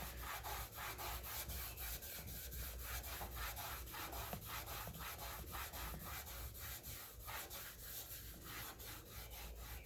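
Rag scrubbing back and forth on the pump's painted gas tank with PB Blaster, working at a red streak left by a rag. A steady, fairly quiet rubbing of about four to five strokes a second.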